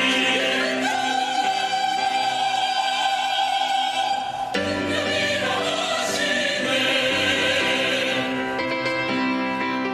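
Church choir singing a hymn in long held chords, moving to a new chord about halfway through.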